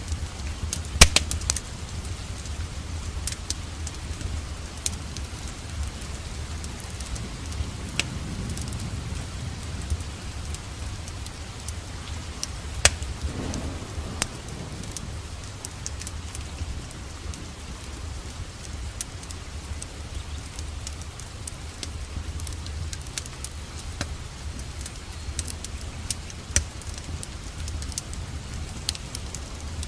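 Rain falling steadily with a wood fire crackling over a low rumble. Sharp pops and snaps come at irregular moments, the loudest about a second in.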